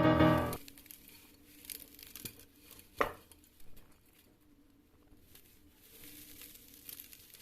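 Piano music stops about half a second in, leaving faint rustling and crinkling, with one sharp tap about three seconds in.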